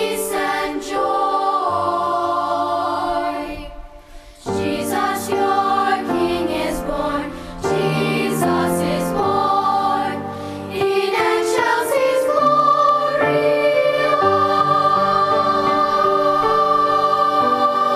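Choir singing a slow carol in sustained chords, with a brief break about four seconds in and a long held chord over the last several seconds.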